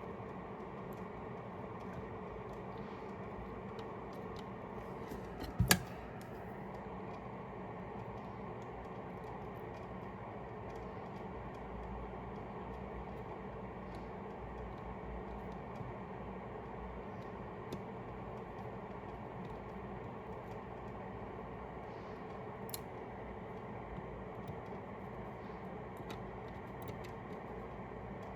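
Steady whirring hum of running workbench equipment, with one sharp click about six seconds in and scattered faint ticks of small tools being handled.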